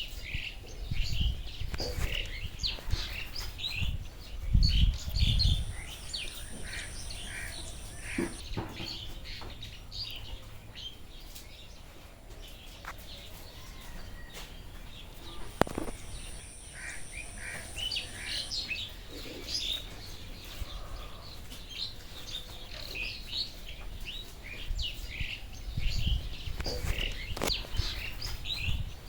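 Many rainforest birds chirping and calling in quick, overlapping short notes. A high insect-like buzz comes in twice for about three seconds each, and there are a few low rumbles.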